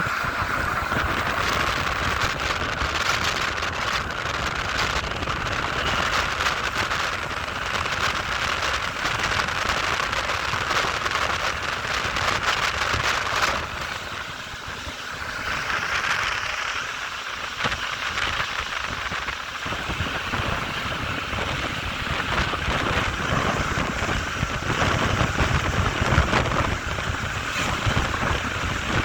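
Bernina Express train running on the rails: a steady rushing rumble with fine rattling and clicking. The noise eases for a few seconds about halfway through, then returns.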